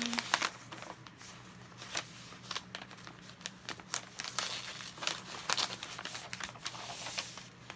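Packaging crinkling and rustling in irregular bursts as items are handled and unwrapped from a box.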